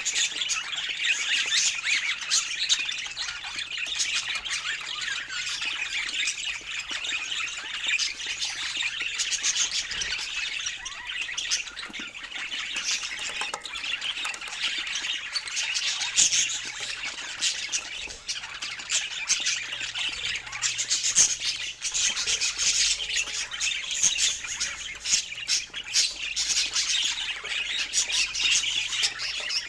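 Budgerigars chattering without a break, a dense stream of quick chirps, warbles and squawks.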